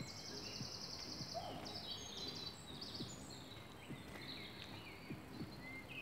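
Songbirds singing in woodland: a fast trill in the first second and a half, then assorted chirps and short phrases, over a steady low background noise.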